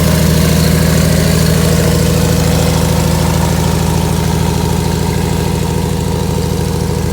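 Small passenger plane's propeller engine running at a steady, even drone with no change in pitch, easing slightly in loudness toward the end.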